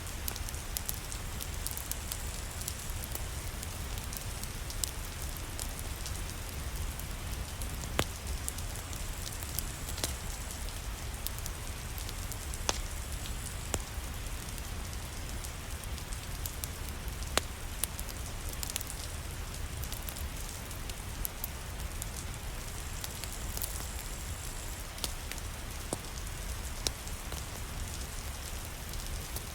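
Steady rain falling, mixed with a wood fire crackling: a continuous even hiss with scattered sharp pops, the loudest about 8 seconds in.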